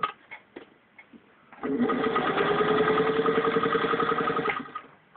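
A 1947 Singer 201-2 sewing machine running for about three seconds, stitching through a 1/8-inch-thick piece of vinyl and leather belt, its pitch rising slightly as it runs, then stopping. A few light clicks come before it starts.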